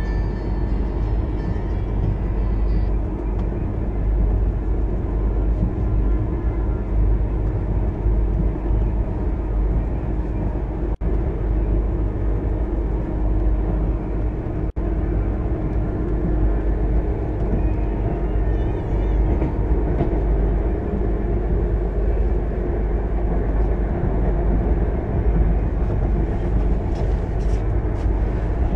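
Passenger coach of the Duronto Express running at speed, heard from inside: a steady, loud rumble and rattle of wheels on rails.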